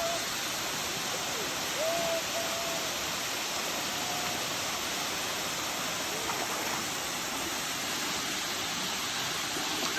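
Steady rushing of a jungle waterfall, water pouring and splashing without a break, with a couple of faint short whistled tones over it about two and four seconds in.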